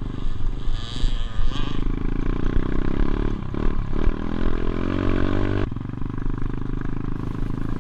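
Motorbike engine running, its pitch rising and falling as the throttle is worked, with an abrupt change in the sound about six seconds in.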